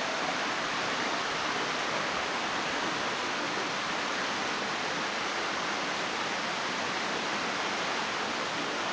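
Steady rush of water falling and running over rock, an even hiss with no breaks.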